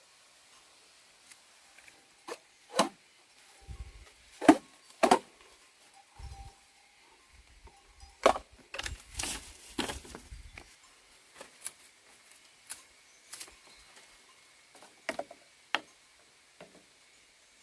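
Irregular sharp wooden knocks and clatters, scattered through, with a denser run of louder ones in the middle.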